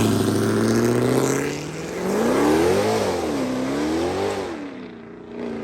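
Car engines on the road: first one engine's pitch falls away as it passes, then another car accelerates hard, its engine pitch rising and dropping twice as it shifts gears, before fading off.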